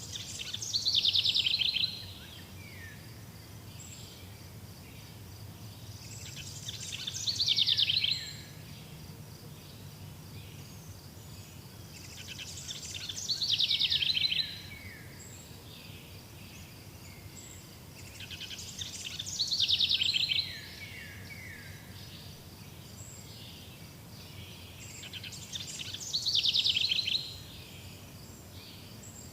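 A songbird repeating the same song five times, about every six seconds; each song lasts about two seconds, a fast high trill that ends in a few falling notes. A faint steady high-pitched pulsing, like insects, continues between the songs.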